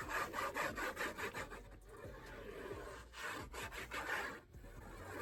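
Quick scratching, rubbing strokes on paper, in two spells with a quieter stretch around the middle.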